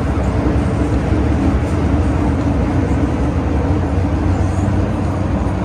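MTR M-Train running at speed between stations, heard inside the car: a loud, steady rumble of wheels on rail and traction equipment with a faint steady hum.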